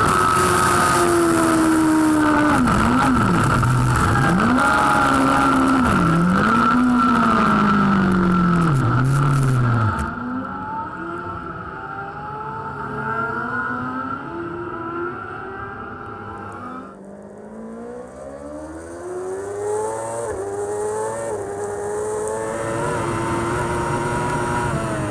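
Superbike racing motorcycle engine heard onboard, revving up and down through gear changes and corners. About ten seconds in, the sound cuts abruptly to a quieter, duller engine note that keeps rising and falling.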